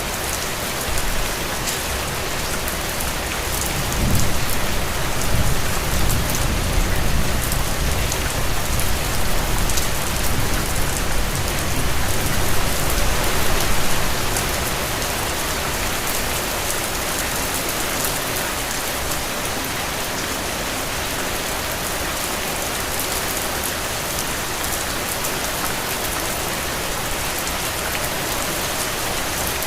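Steady rain falling on a hard surface, an even hiss. From about four seconds in to about fourteen, a louder low rumble rises under the rain and then fades.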